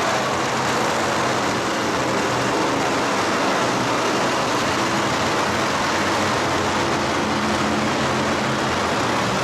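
Loud, steady engine noise over a wide, even din that does not let up, as of motor-show vehicles running in an arena.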